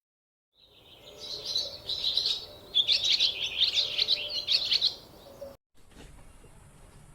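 Birds chirping: a busy run of rapid, high twittering calls that stops suddenly about five and a half seconds in, leaving faint background sound with a thin steady high tone.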